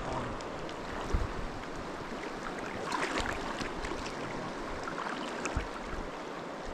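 A river running: a steady rush of flowing water, with a few faint knocks along the way.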